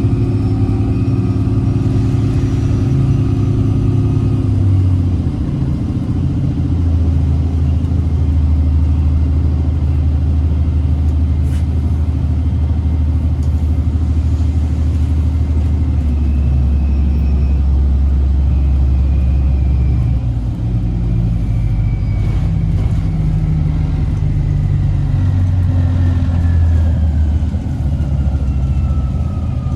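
Onboard sound of a 2008 Orion VII Next Generation hybrid bus under way: the Cummins ISB diesel hums low while the BAE HybriDrive electric drive whines in several steady tones. Over the last several seconds one whine falls steadily in pitch as the drive slows.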